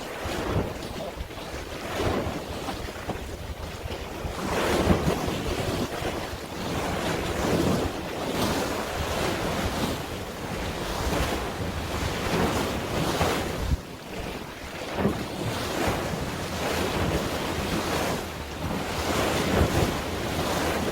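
Sea waves washing and wind buffeting the microphone, a broad noise that swells and eases every second or two.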